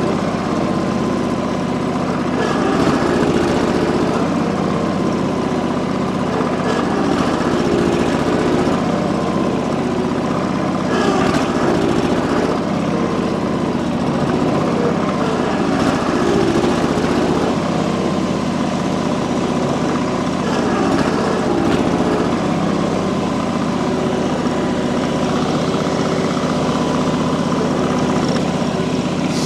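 A 445 garden tractor's engine running hard under load as it tries to drag a compact tractor with locked rear wheels, its pitch wavering up and down.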